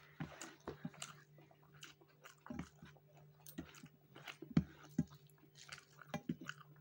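Close mouth sounds of a person chewing a mouthful of rice and fish, faint, with irregular soft wet smacks and clicks, over a faint steady hum.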